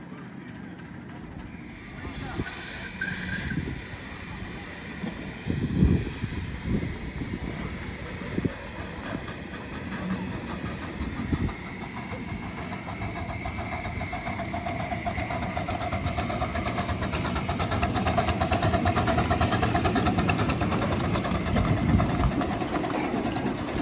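A miniature railway train running on its track: a steady hiss over a low rumble and scattered knocks, growing louder through the second half with a tone rising into it.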